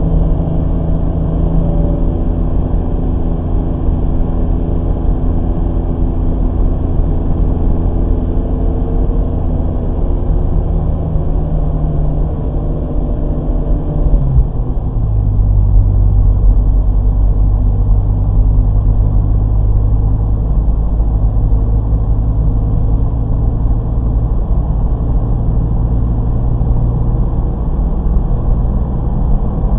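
Car engine running hard at track speed, heard from inside the cabin with a steady rumble of road and wind noise. About halfway through the engine note drops suddenly to a lower pitch and then holds steady.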